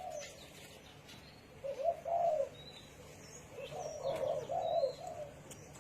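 Spotted dove cooing: a short coo phrase about a second and a half in, then a longer run of coos a little after the middle, with faint high chirps of small birds in between.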